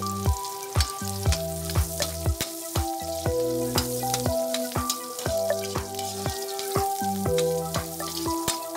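Chopped garlic and onion sizzling as they sauté in a wok, stirred with a metal spatula. Background music with a steady electronic beat, about two kicks a second, plays over the sizzling.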